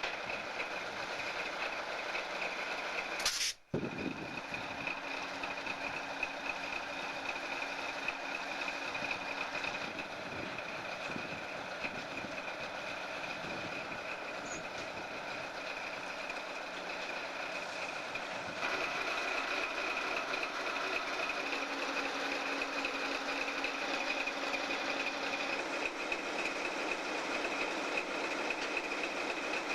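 Railway train running along the track: a switching locomotive and its coal cars rolling, with a steady high whine throughout. A sharp click and a brief dropout come about three and a half seconds in, and the sound gets louder a little past halfway.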